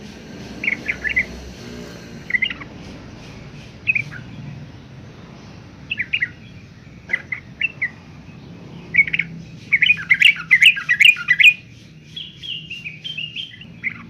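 Yellow-vented bulbul (trucukan) calling in short chirped phrases every second or two. It quickens into a dense run of notes about ten seconds in, then gives a short series of notes stepping down in pitch near the end.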